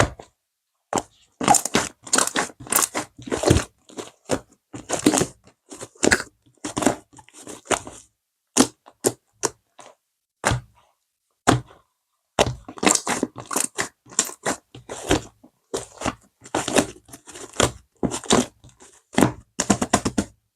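Slime being squeezed and pressed by hand, giving off irregular crunchy crackles and pops in quick clusters with short pauses between.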